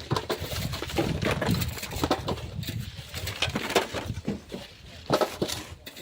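Hand tools digging and shovelling sand with stones: irregular scrapes and knocks at an uneven pace.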